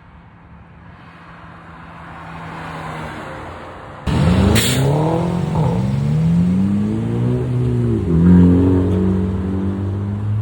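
A car engine idling quietly, then revved hard about four seconds in. Its pitch climbs, falls and climbs again, then drops back to a lower steady running near the end.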